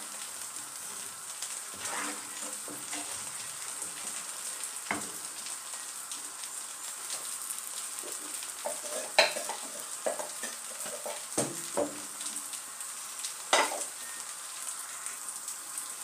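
Steady frying sizzle from rice frying in oil with spices in a pot, beside a pan of blended tomato-and-pepper masala bubbling on the heat. Sharp pops and clicks break through now and then.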